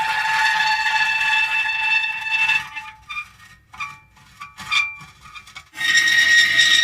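Metal creaking: a long held squeal, then a few short squeaks, then another long squeal starting near the end.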